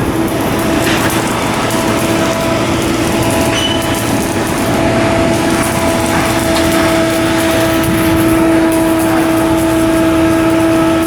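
Shipyard machinery running steadily under a loud wash of noise, with a constant droning hum that holds one pitch throughout.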